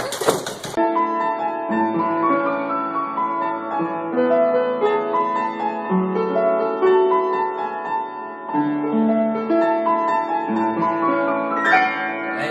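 Piano music playing, a melody of held notes with a chordal accompaniment.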